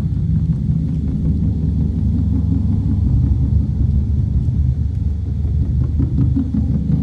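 Large drums of a drum ensemble played in a continuous, dense low roll that blends into a steady deep rumble.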